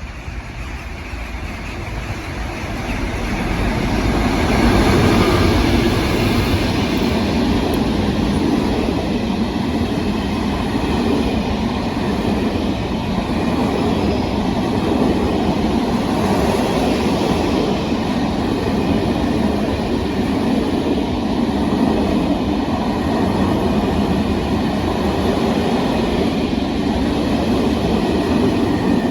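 A train running past on the track: its rolling noise builds over the first few seconds, then holds steady and loud.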